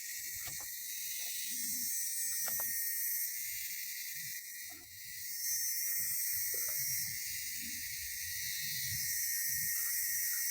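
A dense chorus of insects making a steady, high-pitched buzzing hiss without a break.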